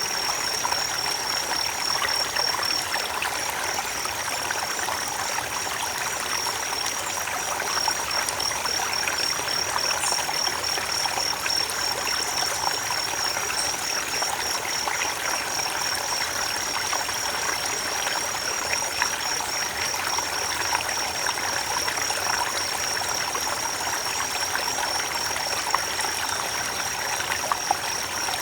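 Creek water running and trickling steadily, with a continuous high-pitched trilling tone above it.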